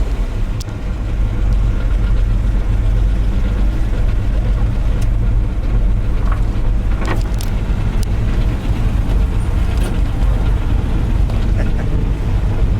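1964 Chevrolet Corvair Greenbrier van's air-cooled flat-six engine idling steadily, a loud, even low rumble.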